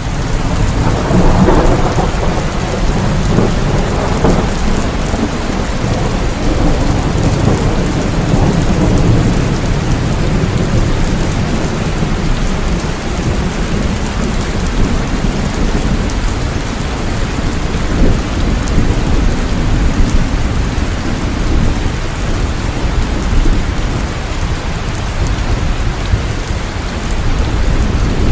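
Steady rain falling, with thunder rumbling low underneath, strongest in roughly the first ten seconds.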